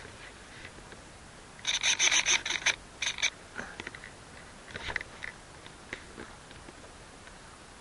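Handling noise on a small keychain camera: a quick run of loud clicks and rattles lasting about a second and a half, followed by a few scattered clicks.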